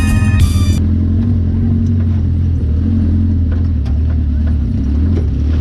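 Off-road buggy engine running steadily under way, a loud low drone. A music track cuts off under a second in.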